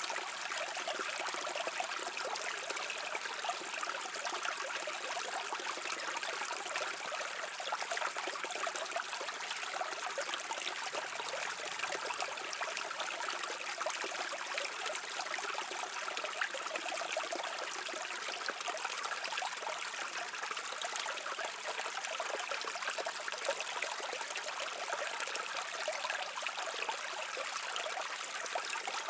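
A stream flowing over rocks: steady babbling and trickling water.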